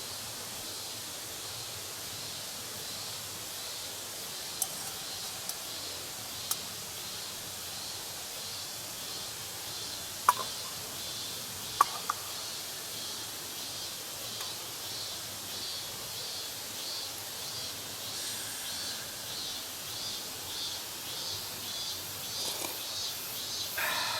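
Insects chirping in a steady high pulsing chorus, about three pulses a second and growing louder through the second half, over a constant outdoor hiss. A few sharp clicks stand out, the loudest pair about ten and twelve seconds in.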